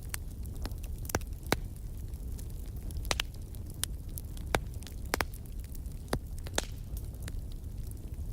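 Wood fire burning in a fireplace: a steady low rumble with sharp, irregular crackles and pops from the burning logs.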